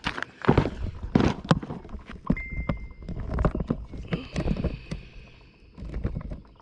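Camera being handled and set down on a box, with a run of knocks, bumps and rubbing against the microphone.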